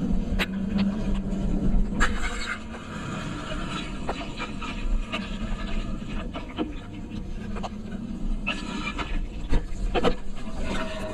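Low rumble of travel over wet ground, with scattered sharp taps and knocks.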